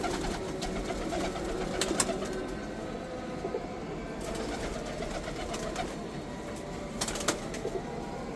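Giribaz pigeons cooing, several low, wavering coos overlapping, with a sharp click about two seconds in and a few more near the end.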